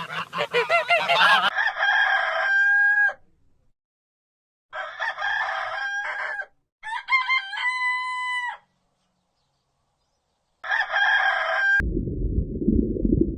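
A rooster crowing four times, each crow a held call that steps in pitch at the end. Before the first crow, goose honking cuts off, and about twelve seconds in an unrelated low rumbling noise starts abruptly.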